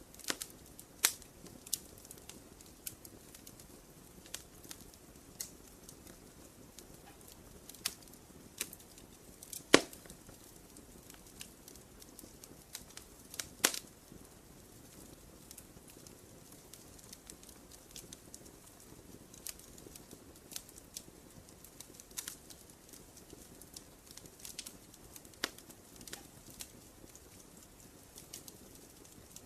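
Wood campfire burning, with sparse, irregular crackles and sharp pops over a low steady hiss; the loudest pops come just before ten seconds in and just before fourteen.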